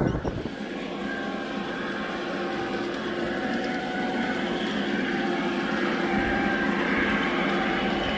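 G-scale garden-railway model train running, its electric motor and gears giving a steady whine that grows slowly louder as it comes closer.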